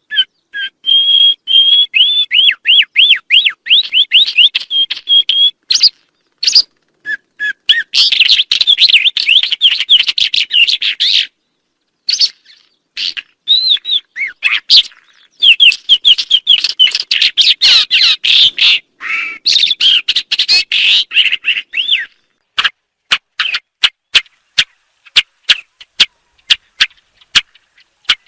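Songbird singing: long runs of fast repeated chirps and trills, broken by short pauses, then a series of separate sharp clicks over the last six seconds.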